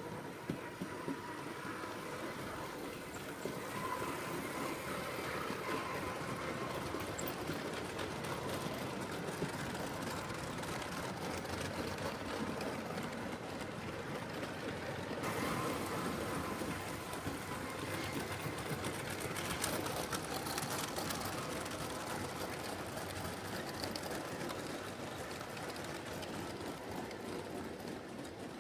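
7mm-scale model train running along the track: a steady rumble of wheels on the rails, with a few sharp clicks about a second in.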